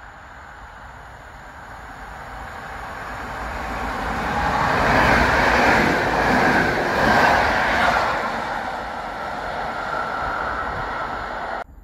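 Electric multiple-unit passenger train approaching and passing a platform at speed. Its rushing running noise builds steadily to a peak about five to seven seconds in, then eases a little as it moves away, and cuts off suddenly near the end.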